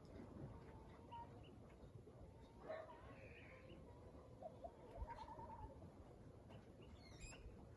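Faint bird calls over a low background hiss: scattered short whistles, a brief trill about five seconds in, and a high chirping call near the end.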